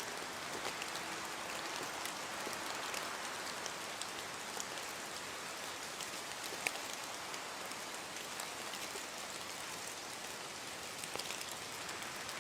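Steady rain falling, an even hiss with many separate drops ticking on a surface, and one sharper drop about six and a half seconds in.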